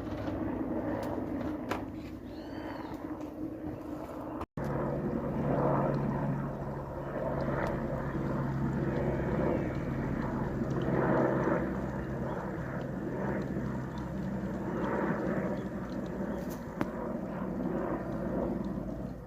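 Helicopter passing, a steady drone of rotor and engine that grows louder after about four and a half seconds and then swells and fades unevenly.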